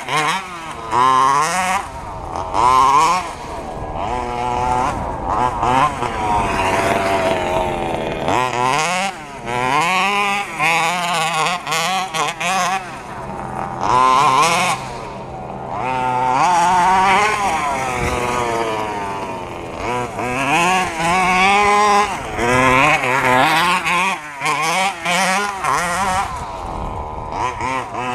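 FG 2WD large-scale RC stadium truck's small two-stroke petrol engine being driven hard, its pitch rising and falling over and over as the throttle is opened and eased off.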